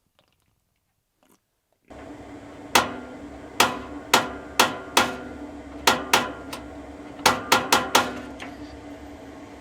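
Camper stove's spark igniter clicking over and over, about fifteen sharp clicks at uneven spacing, some in quick runs, as it is worked to light a burner; the sparker is unreliable and often fails to light. A steady hum runs underneath from about two seconds in.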